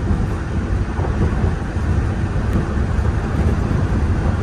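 Steady low rumble of a Walt Disney World monorail train running along its track, heard from inside the passenger cabin.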